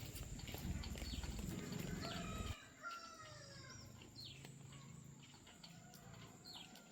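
A rooster crowing in the middle, with short bird chirps around it. A low rumble runs under the first half and stops abruptly.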